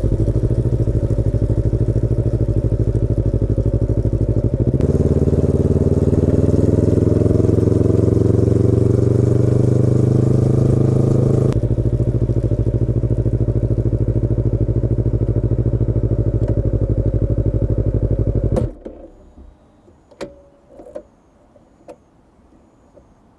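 Yamaha YZF-R25's 249 cc parallel-twin engine running steadily at low revs through its exhaust, then shutting off suddenly about four-fifths of the way through, leaving a few faint clicks.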